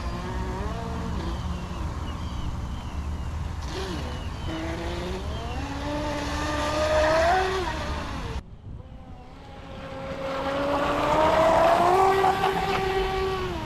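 RC catamaran speedboat's brushless motor whining as it is throttled, the pitch rising and falling over water and hull noise. It cuts off abruptly about eight and a half seconds in, then climbs again to its loudest whine near the end before dropping off.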